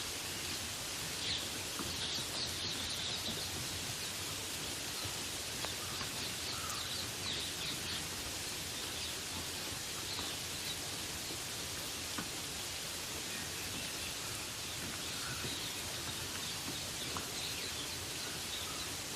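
Steady rain hiss with birds chirping over it: clusters of short, high calls through the first half, fewer in the middle, and more again near the end.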